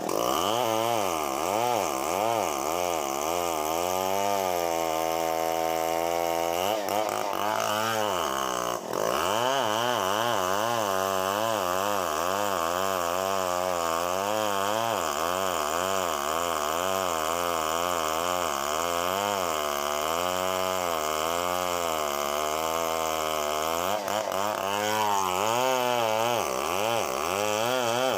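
Chainsaw running, its engine pitch rising and falling over and over as it cuts, with a brief dip about nine seconds in.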